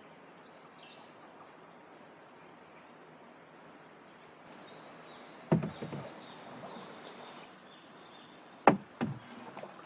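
Paddling a canoe: the paddle knocks against the hull once about halfway through and twice in quick succession near the end, over a faint steady background of rainforest ambience with high chirps.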